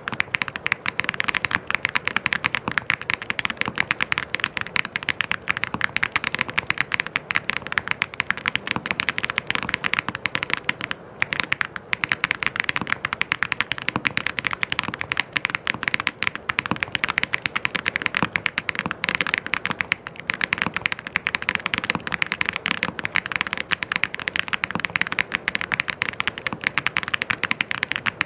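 Fast, continuous typing on a mechanical keyboard, a dense run of key clicks and clacks, with a brief pause about eleven seconds in.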